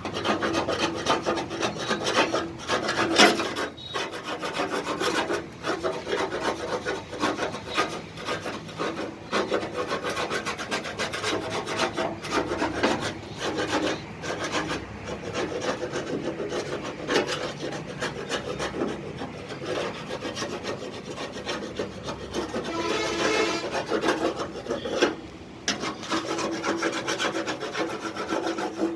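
Hand abrasive rubbing on tractor bodywork during denting and paint preparation: continuous rapid back-and-forth rasping strokes.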